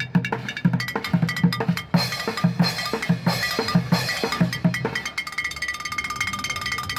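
A live percussion beat on drums, with low bass strikes about three a second and sharper clicky hits over them. The drumming stops about five seconds in and a steady ringing tone carries on.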